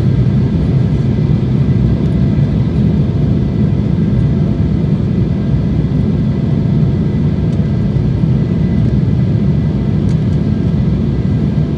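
Steady rumble of a jet airliner heard from inside the cabin: engine and airflow noise, strongest in the low range, with a faint steady whine.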